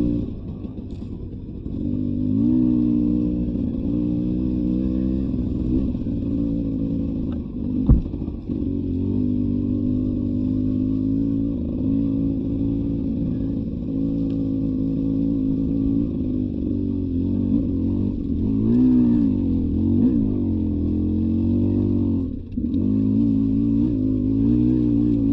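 Beta 300 RR Racing two-stroke single-cylinder dirt bike engine riding a trail, the throttle opening and closing so the engine note keeps rising and falling. A single sharp knock comes about a third of the way through.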